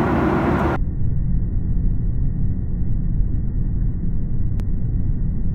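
Airliner cabin noise: a steady low rumble of engines and airflow. A brighter hiss cuts off under a second in, and there is one faint click near the end.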